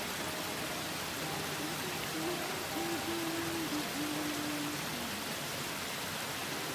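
Waterfall rushing steadily, with a faint tune of a few held notes heard over it from about two to five seconds in.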